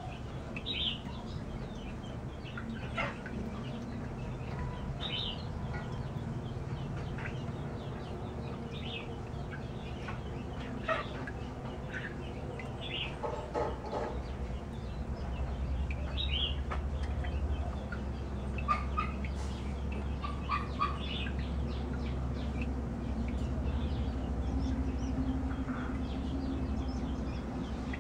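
Scattered short bird calls, over a low steady hum that grows louder about halfway through.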